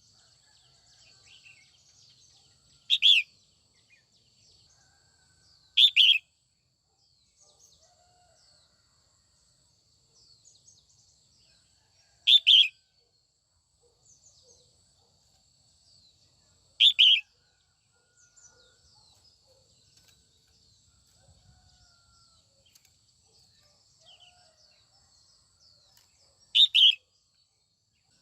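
Female red-whiskered bulbul calling: five short, loud calls, each about half a second, spaced several seconds apart, with faint softer chirps in between. This is the kind of female call used to stir male bulbuls into singing.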